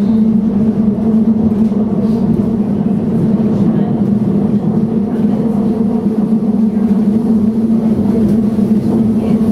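SAD Stadler FLIRT electric multiple unit (ETR 170) heard from aboard while running: a steady low hum over even rolling noise.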